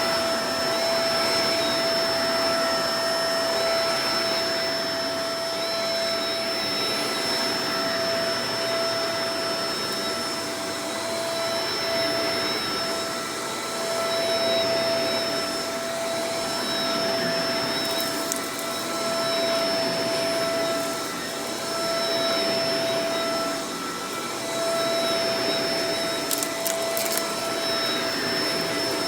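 Shark Professional Powered Lift-Away DLX (NV586) vacuum cleaner running steadily, its motor noise carrying a steady whine, the level swelling and dipping gently. A few small clicks about two-thirds of the way through and near the end.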